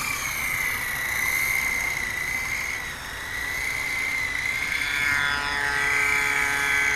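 Blade 180EFL micro RC helicopter's electric motors and counter-rotating rotors whining in flight: a steady high whine that wavers a little in pitch with the throttle. A second, lower buzzing tone joins about five seconds in.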